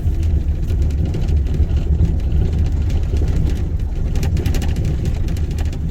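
A vehicle driving on a rough, unpaved mountain road: a steady low rumble of engine and tyres, with scattered knocks and rattles from the bumps, thickest about four to five seconds in.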